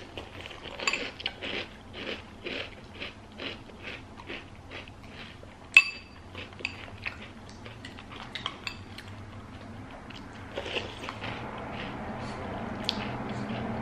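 Chewing a mouthful of Oreo O's cereal in milk: a steady run of crunches, about two to three a second. About six seconds in, a spoon clinks once sharply against the cereal bowl, followed by softer, scattered chewing.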